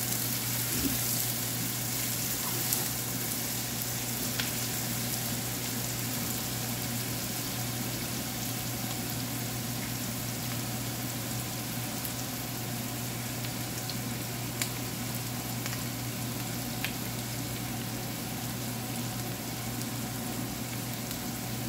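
Chopped red onion and garlic sizzling in hot oil in a frying pan, a steady frying hiss with a few small sharp pops, as the onion starts to brown. A wooden spatula stirs them at the start.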